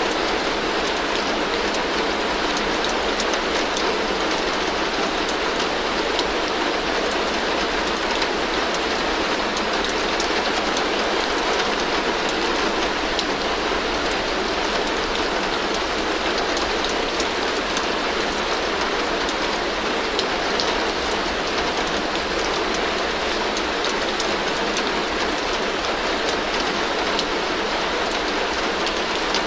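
Heavy rain falling steadily on a tin roof: an even, dense hiss of rain on metal, flecked with the ticks of individual drops.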